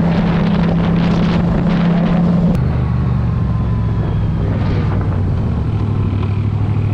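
Yamaha XSR700 parallel-twin motorcycle engine running on the road, with wind noise on the microphone. The engine note drops about two and a half seconds in and again near six seconds.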